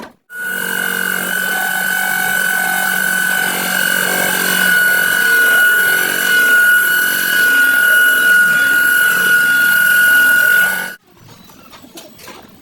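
Electric angle grinder running on the car's sheet-metal body, a steady high whine over a harsh rasp, cut off abruptly near the end.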